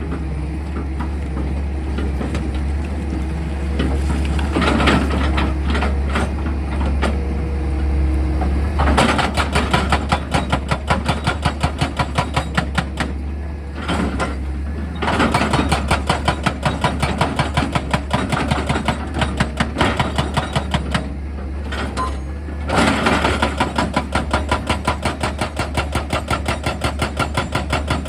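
Excavator engine running steadily. From about a third of the way in, a hydraulic rock-drilling attachment hammers rock in fast, regular blows, stopping twice for a second or two.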